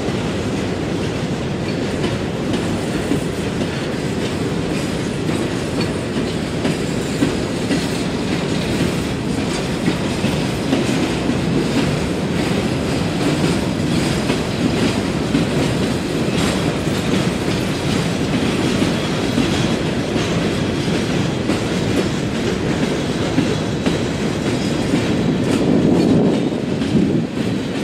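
A train of empty coal hopper cars rolling steadily past, with the wheels clicking over the rail joints.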